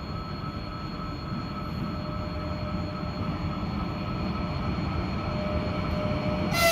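An approaching train rumbling and growing steadily louder, with a steady whine over the rumble. Right at the end a loud horn blast starts.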